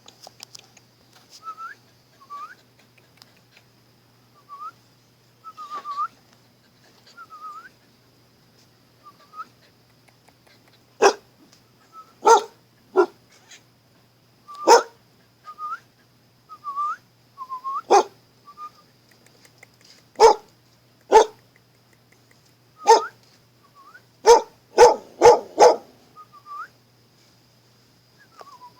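A dog whining in short, high, repeated whimpers, then barking from about eleven seconds in: a dozen sharp single barks, with a quick run of four or five near the end.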